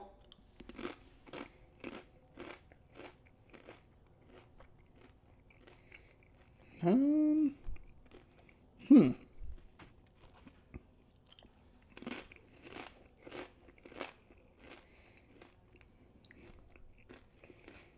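Crunchy mini tortilla chips (Doritos Minis) being chewed with the mouth close to the microphone: a run of crisp crunches about two to three a second, easing off in the middle, then picking up again around twelve seconds in. Two short hums from the eater come about seven and nine seconds in.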